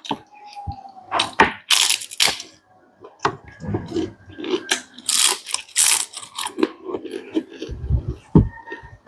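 Close-miked eating: irregular chewing and crunching of food in the mouth, with wet mouth clicks and smacks.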